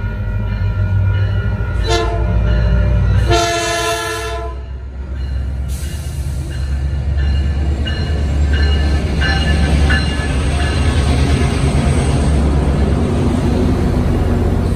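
Metrolink MP36PH-3C diesel locomotive sounding its horn on approach: a short blast about two seconds in and a longer one about a second later. Then its diesel engine and the wheels on the rails rumble steadily, growing louder as it pulls in alongside the platform.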